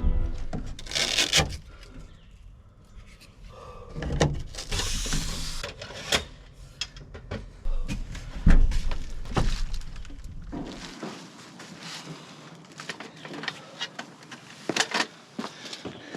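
A series of sharp knocks, clicks and rustles from things being handled, over a low rumble that cuts off suddenly about eleven seconds in.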